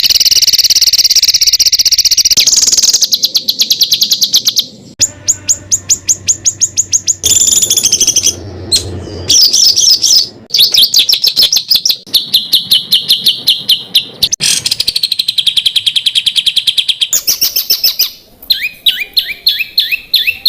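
Recorded songbird calls strung together as training material for competition birds: fast trains of sharp, repeated chattering notes, the 'tembakan' phrases. The pattern changes abruptly every one to four seconds as one recorded phrase cuts to the next. Near the end come quick sweeping notes.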